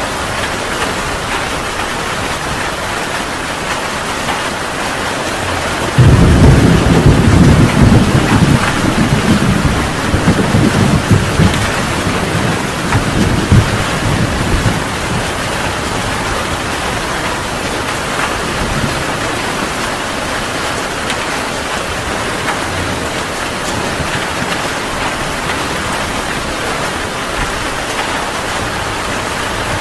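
Heavy rain falling steadily. About six seconds in, a thunderclap breaks in suddenly and rumbles for about eight seconds, fading back under the rain.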